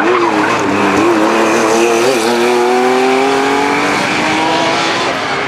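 Historic rally car accelerating hard: its engine note climbs steadily in pitch in one long pull lasting several seconds.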